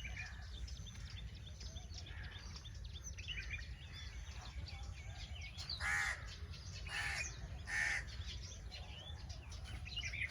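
Many small birds chirping and twittering, with a crow cawing three times about six to eight seconds in, over a steady low rumble.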